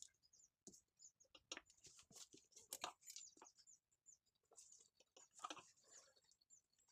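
Faint, irregular scratching and light clicks, scattered with short gaps between them.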